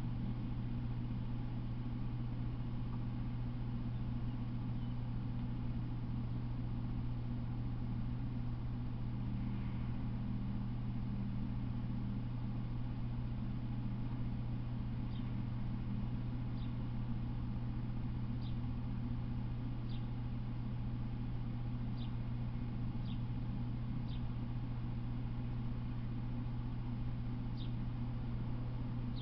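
A steady low hum throughout, with a bird giving short, high, falling chirps every second or two from about halfway in.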